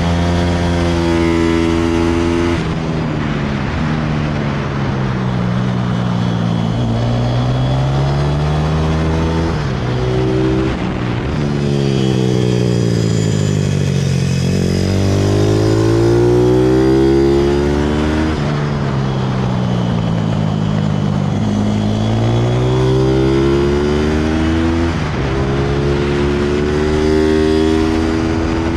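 160cc pit bike's single-cylinder four-stroke engine running hard, its pitch rising and falling over and over as the bike accelerates and slows.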